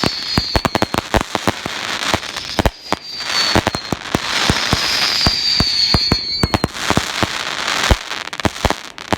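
Fireworks going off in rapid succession: many sharp bangs over crackling. A high whistle falls slightly in pitch for about two seconds in the middle.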